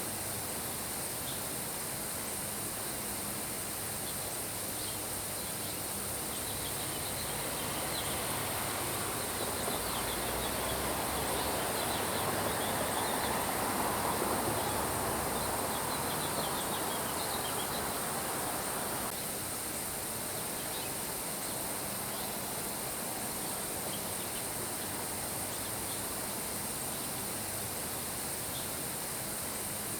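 Steady rain hiss with many short, high bird chirps over it. A louder rushing wash swells up in the middle and cuts off suddenly about two-thirds of the way through.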